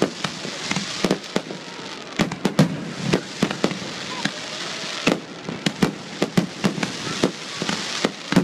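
Fireworks display: aerial shells bursting in quick, irregular succession, about two or three sharp bangs a second, over a continuous hiss.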